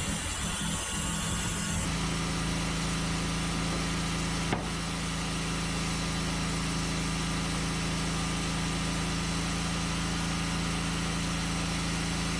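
Engine of a Norwood Lumbermate band sawmill running steadily, its sound changing about two seconds in, with a single sharp click a little later.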